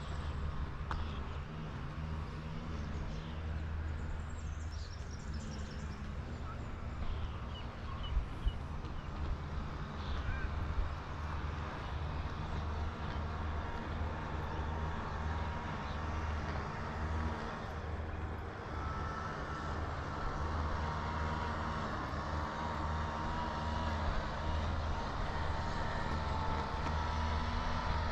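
Riding noise from a mountain bike on the road: a steady low rumble of tyres and wind on the microphone, with a couple of light knocks. A faint wavering whine joins about two-thirds in.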